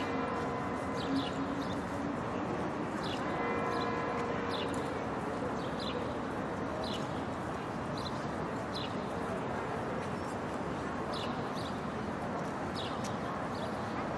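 Murmur of a crowd of people talking in a large open square, a steady mix of many voices. Short high chirps repeat through it every second or so.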